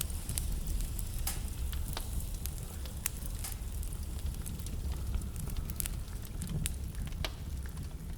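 Wood fire crackling, with scattered sharp pops and snaps over a steady low rumble of the burning logs.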